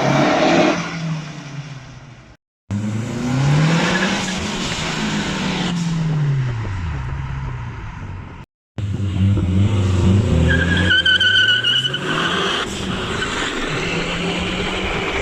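MazdaSpeed 3's turbocharged 2.3-litre four-cylinder engine revving up and falling back through several hard pulls, with abrupt cuts between takes. About eleven seconds in, a brief high squeal sounds over the engine.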